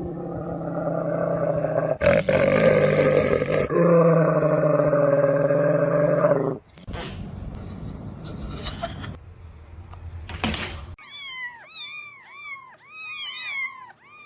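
An animal's long, drawn-out cry for about six seconds, broken twice, then, after a noisier stretch, a quick run of short rising-and-falling calls near the end.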